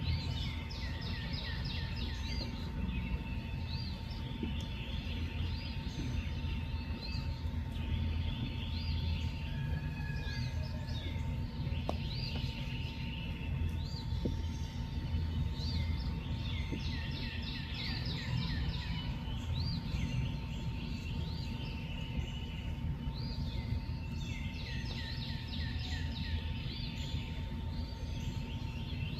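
Outdoor night chorus of small animals: clusters of high chirps and fast trills repeating every few seconds, over a steady low rumble and a faint steady whine.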